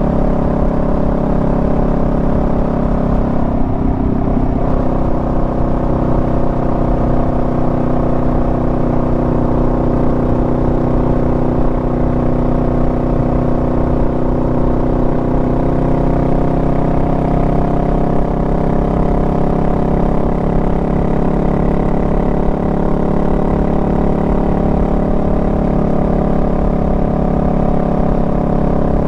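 Honda Rebel 500's parallel-twin engine running steadily while riding at cruising speed, with a brief change in its note about four seconds in.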